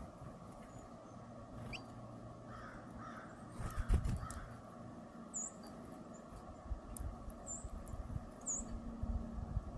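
Corvids calling at a backyard feeder: a quick run of about four harsh caws in the middle, with a few low thumps at the same time. Later come three short high chirps from a small bird.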